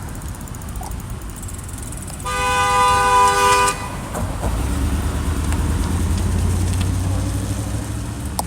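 A car horn sounds once and is held for about a second and a half. Then a car passes close by with a low rumble that swells and fades.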